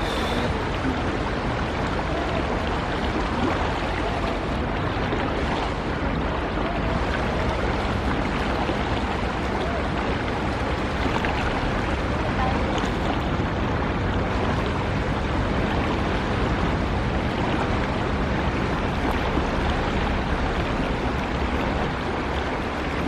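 Sea truck (coastal ferry) underway: a steady rush of water and wind, with a faint low engine hum.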